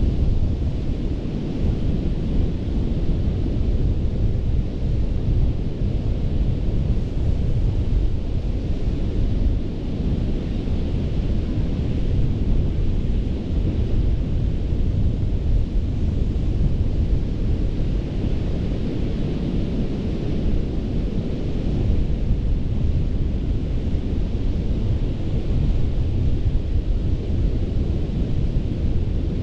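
Ocean surf breaking on a sandy beach: a steady wash of waves over a heavy low rumble, with the higher hiss of the surf swelling a couple of times.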